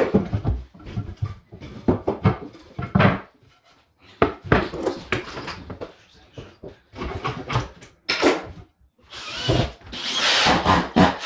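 Tools working on wood, with irregular knocks and scraping, then a steady motor noise building up near the end.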